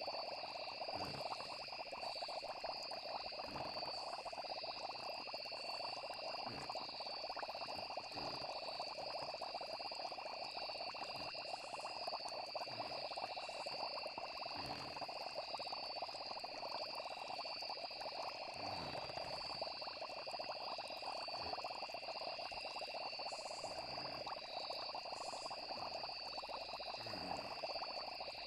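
Steady night chorus of frogs and insects, with continuous high trilling and soft low pops every second or two.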